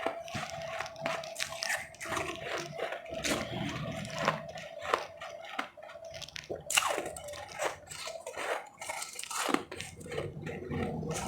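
Close-up crunching and chewing of powdery refrozen ice, irregular sharp bites and crunches one after another.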